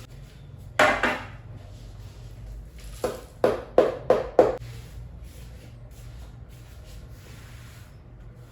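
Sharp knocks and clatter on a kitchen work surface: a double knock about a second in, then a quick run of five knocks between about three and four and a half seconds in, over a low steady hum.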